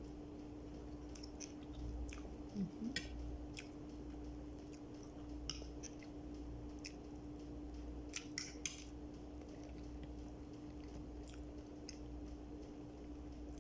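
A person chewing and biting food close to the microphone: wet, crackly mouth sounds with a few louder clicks about a quarter of the way in and again past the middle, over a steady low hum.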